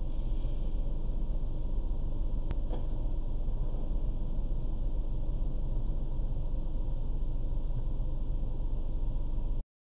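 Steady low rumble of vehicle and road noise, with a single sharp click about two and a half seconds in. It cuts off abruptly just before the end.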